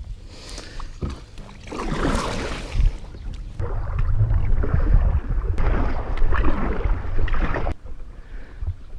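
Sounds from a fishing kayak on the water: wind rumbling on the microphone, with swells of water or handling noise and a few light knocks. The noise dies down for a moment near the end.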